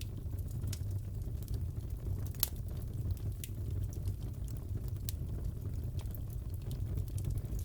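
Fireplace crackling: a steady low rumble of the burning fire with irregular sharp pops and snaps, one louder pop about two and a half seconds in.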